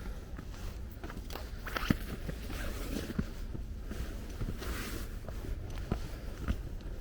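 Wind rumbling on the microphone, with rustling and scattered light clicks and knocks, the loudest a sharp click about two seconds in.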